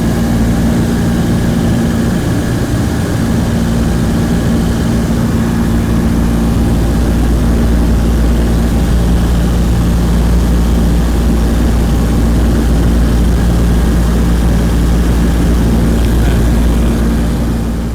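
Douglas DC-3's twin radial piston engines and propellers heard from inside the cabin: a loud, steady drone with a deep rumble and a constant hum.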